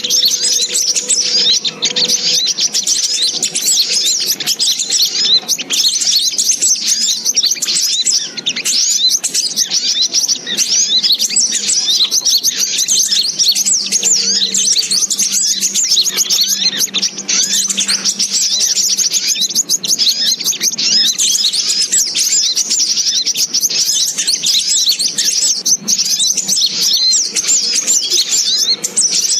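Sunbirds twittering: dense, continuous, high-pitched chirps and trills from many birds at once, with no pause. This is a lure call recording (pikat) used to draw sunbirds in for trapping.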